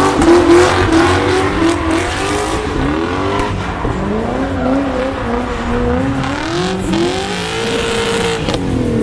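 Drift cars' engines revving up and down on the throttle while sliding, more than one engine heard at once, with tyre noise under them. The pitch drops away near the end.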